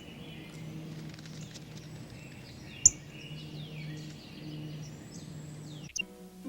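Small songbirds giving faint, short, downward-sliding chirps over a low steady hum, with one sharp click about three seconds in. Harp music comes in near the end.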